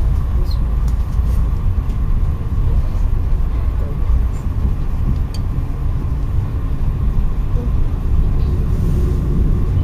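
Steady low rumble of an Amtrak passenger train rolling along, heard from inside the passenger car, with a faint steady hum over it.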